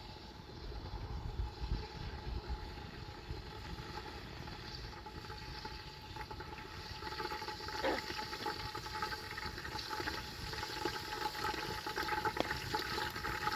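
Water running, getting stronger about halfway through.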